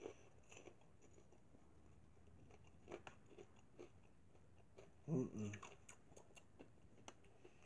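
Faint chewing of popcorn, with a few soft clicks and crunches, and a short hummed 'mm' about five seconds in.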